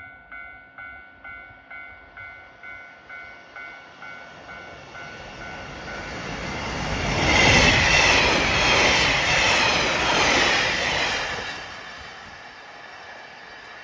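JR Hokkaido 789 series electric limited express train passing through at speed. The sound swells to a loud, rhythmic wheel clatter in the middle and falls away near the end. A level crossing bell rings at about two strokes a second at the start and fades out within the first few seconds.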